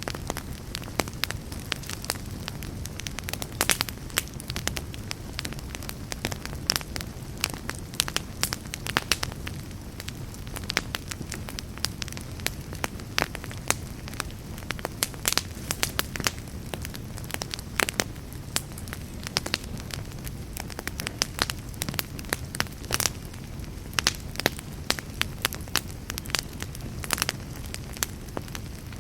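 Fireplace fire crackling, with frequent irregular sharp pops and snaps over a low steady rumble of the flames.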